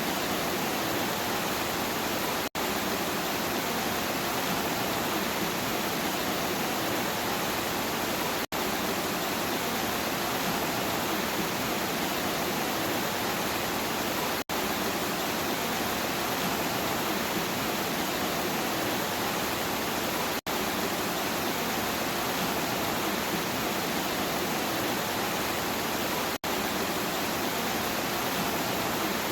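Steady, even rain noise with no thunder, broken by very short dropouts about every six seconds, where a repeating recorded loop restarts.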